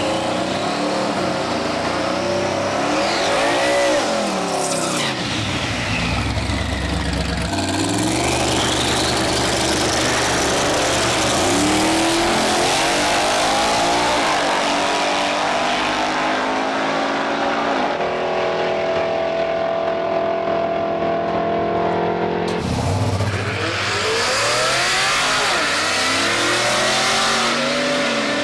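High-powered drag racing cars' engines revving hard and accelerating, the pitch sweeping up and down again and again. Near the middle the note holds steadier for a few seconds, then changes suddenly.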